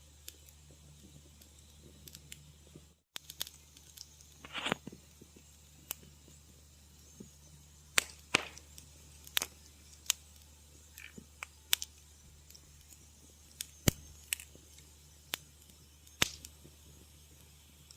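Wood fire crackling: irregular sharp pops and snaps, a few much louder than the rest, over a steady low hum. The sound cuts out completely for a moment about three seconds in.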